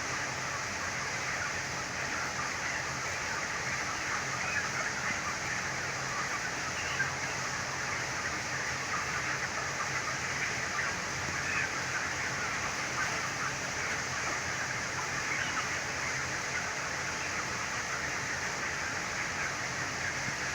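Steady din of a large flock of broiler chickens in a poultry house, many small sounds overlapping continuously, over a low steady hum.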